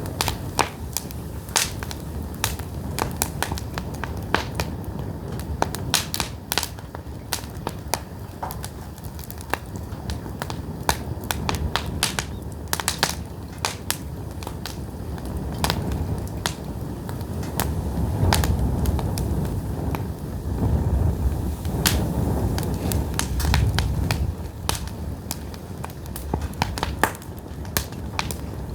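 Pine firewood burning, crackling with frequent, irregular sharp pops over a low rumble that swells for several seconds past the middle.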